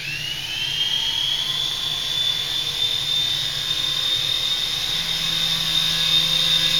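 Syma S111G micro remote-control helicopter's small electric rotor motors spinning up: a whine that rises in pitch over the first second or so, then holds at a steady high pitch.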